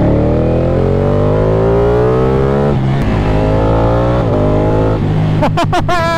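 Ducati Panigale 899's Superquadro V-twin accelerating hard, its note rising through a gear, upshifting about two and a half seconds in and again about four seconds in. Near the end the engine note turns choppy and broken up.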